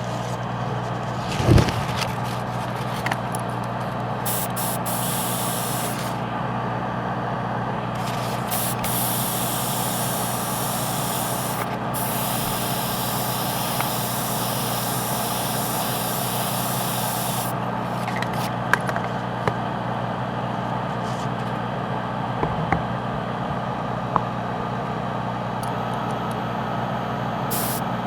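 Airbrush spraying paint, its air hiss stopping and starting several times as the trigger is worked, over the steady hum of an air compressor. A single knock comes about a second and a half in.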